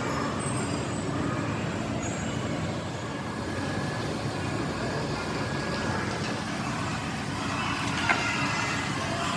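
Steady running machinery noise with faint steady tones, and one short sharp click about eight seconds in.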